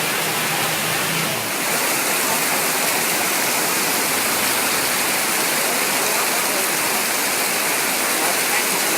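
Heavy rain pouring down in a steady, dense hiss. A faint low hum fades out about a second and a half in.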